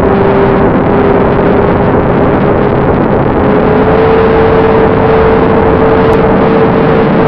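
Electric motor and propeller of a Bynary 1200 FPV model plane in flight, a steady whine over loud rushing air noise. The whine steps up slightly in pitch about halfway through as the throttle rises.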